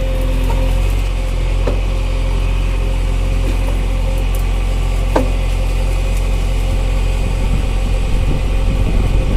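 Tractor engine running steadily at idle, a low continuous drone with a steady hum. About five seconds in there is a short falling whistle-like tone, and the engine sound gets rougher and a little louder near the end.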